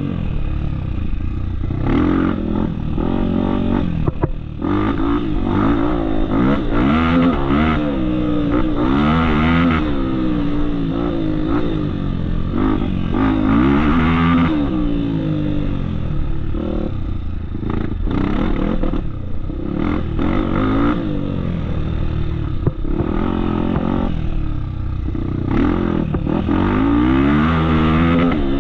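Dirt bike engine revving up and down again and again as the throttle is opened and closed, with a few sharp knocks.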